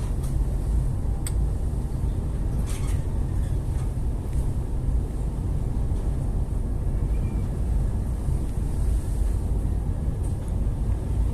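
Steady low rumble on board a boat at sea, with a few sharp knocks in the first few seconds.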